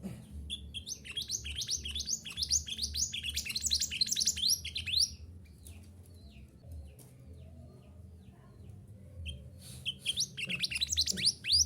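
Mantenan gunung songbird singing a fast run of high, rapid chirping notes for about five seconds, then a few scattered quieter calls, then another quick run of chirps near the end. A low steady hum sits underneath.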